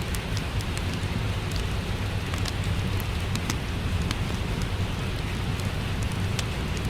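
Steady rain with a low, even rumble, mixed with a wood fire crackling: many small, sharp pops scattered irregularly over the rain.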